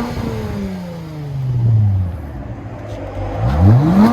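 Lexus GS 350's 3.5-litre V6 revved through a dual exhaust with the rear mufflers deleted and the resonators kept: the engine drops back from a rev over about two seconds, settles briefly, then is revved again sharply near the end. The tone is clean rather than raspy.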